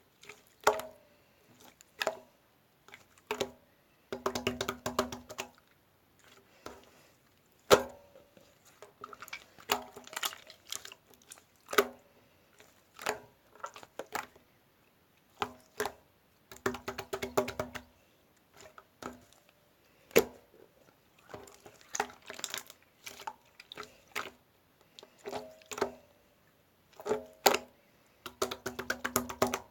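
Irregular taps, knocks and bursts of clatter from objects being handled, some clusters carrying a short ringing tone.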